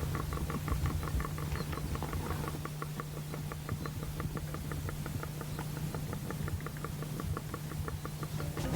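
Male common warthog's rhythmic courtship grunting, a regular putt-putt of about five pulses a second that sounds like a tractor running, made as he follows a female in courtship. A steady low hum runs underneath.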